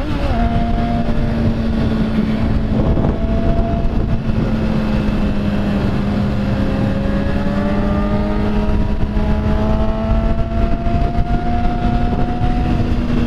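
Motorcycle engine running while riding, under heavy low wind rumble on the microphone; its pitch climbs slowly through the second half as the revs build.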